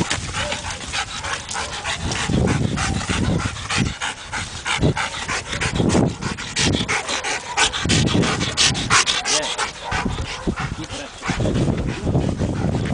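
A working dog on a decoy search, panting and scuffing about, with a steady run of rustling and scuffing clicks.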